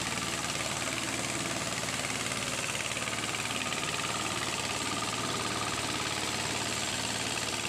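Hand tractor engine running steadily with a fast, even chugging while the tractor works a wet rice paddy.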